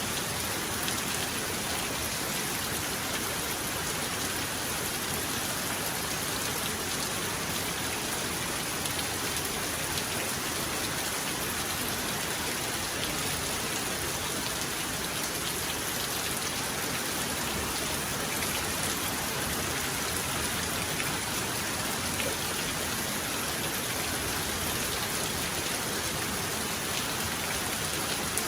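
Heavy rain falling steadily, an even dense hiss of drops on surfaces with no thunder heard.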